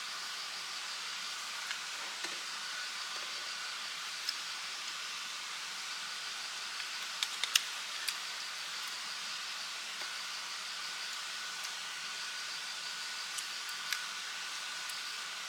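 Night insects trilling steadily, a high pulsing chirr, over the steady rush of a stream. A few sharp clicks sound about halfway through.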